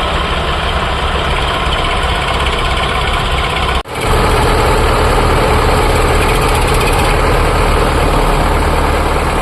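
Diesel tractor engine running steadily. The sound cuts out sharply for a moment about four seconds in, then picks up again with a heavier low rumble.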